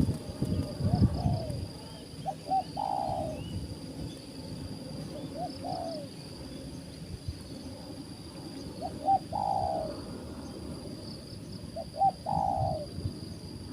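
Spotted dove (tekukur) cooing: a phrase of two short notes and a longer falling note, repeated about every three seconds. A steady high insect drone runs underneath.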